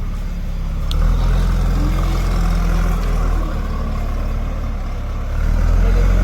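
Heavy diesel engine running steadily, getting louder about a second in and again near the end, with a single sharp click about a second in.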